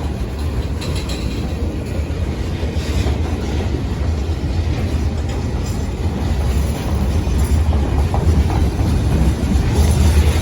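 Train rolling past: a steady low rumble with light clicking of wheels over the rails, growing a little louder near the end.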